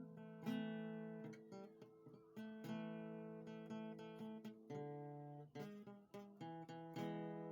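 Background music on acoustic guitar: gentle strummed and plucked chords at a steady pace, played quietly.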